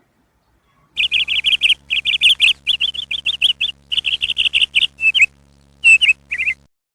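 A small songbird chirping in rapid trains of high, quick notes, several a second, broken by short pauses and ending in a few separate chirps.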